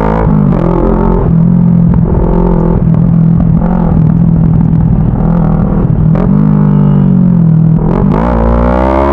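CFMoto 400NK's parallel-twin engine pulling on the move, its pitch dipping briefly a few times with throttle and gear changes and climbing in a rev near the end.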